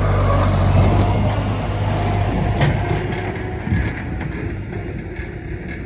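Skid steer engine running under load while it grades a muddy road, loud at first and then dropping away after about two and a half seconds, with a couple of short knocks.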